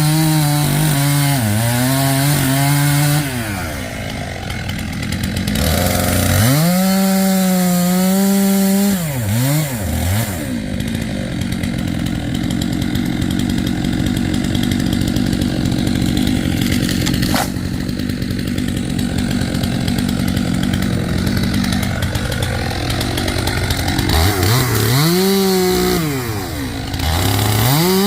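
Stihl chainsaw revving up and down, with a long stretch of steady cutting through wood in the middle, then revving again near the end.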